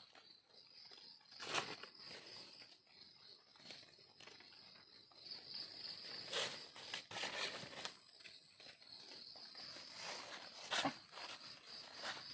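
A steady high-pitched insect drone, with footsteps and crackling rustles of someone walking through the undergrowth, the loudest a little past a second and a half in, around six to seven seconds in, and near eleven seconds in.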